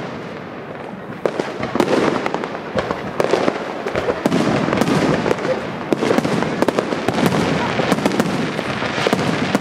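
Aerial firework shells bursting in quick succession, a dense, unbroken run of bangs and crackles.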